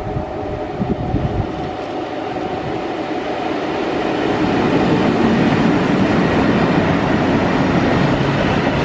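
Diesel freight locomotive approaching and passing close by, its engine running steadily and growing louder over the first few seconds.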